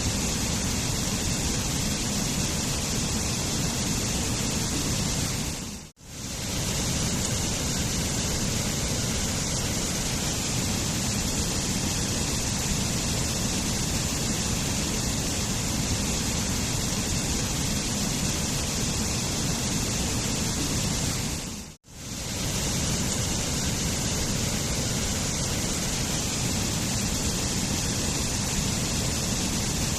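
Waterfall, a steady rush of falling water. Twice, about 6 seconds in and again about 22 seconds in, the sound briefly fades to nothing and straight back in.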